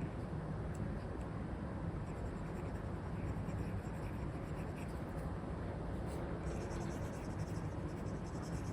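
Stylus nib scratching in short strokes across a paper-like screen protector on a tablet, the strokes growing denser about six and a half seconds in, over steady background noise.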